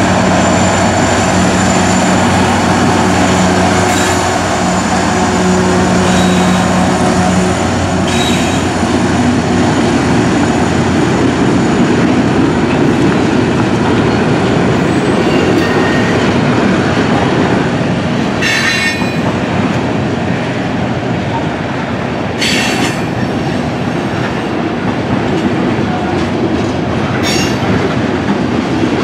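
A GE ET44AH diesel locomotive, the mid-train distributed power unit, goes by close with a steady engine drone. After about seven seconds the drone gives way to the rumble and clatter of loaded freight cars rolling past. Two brief wheel squeals come about two-thirds of the way in.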